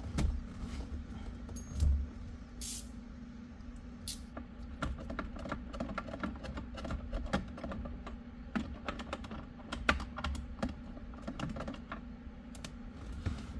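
Irregular light clicks and taps of a T30 Torx socket and ratchet being worked on the hidden airbag bolt behind the C5 Corvette's steering wheel. The clicks come thicker from about a third of the way in, over a steady low hum.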